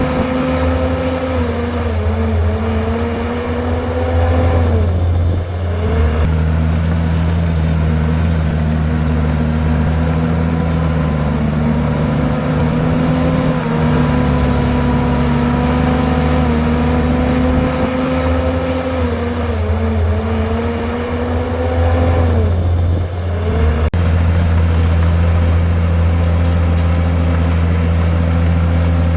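Komatsu bulldozer's diesel engine running steadily with a deep drone. Twice, about five seconds in and again past twenty seconds, its pitch sags and then picks back up.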